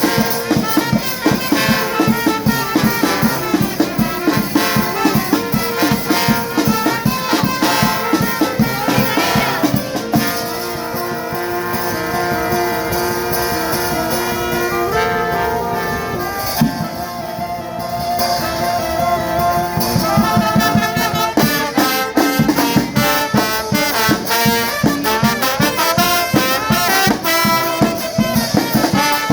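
A charanga street band playing live: trumpets and trombones over a driving drum beat. About ten seconds in, the drums drop back and the brass holds long notes, then the full beat returns about ten seconds later.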